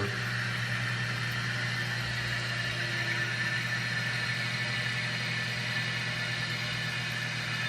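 A 2014 Western Pottery Aris toilet tank refilling after a flush: water running in through the fill valve with a steady hiss over a low hum.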